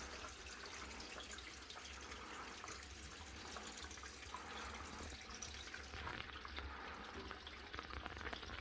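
Faint steady running water with scattered drips, echoing slightly in a small room.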